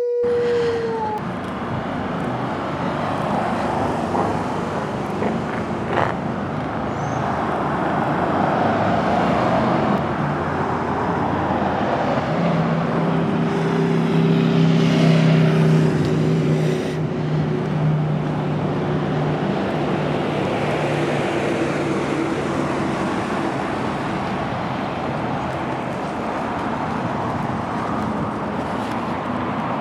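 Street traffic: cars passing with a steady wash of tyre and engine noise that swells twice. A heavier vehicle's engine hum rises through the middle and fades out.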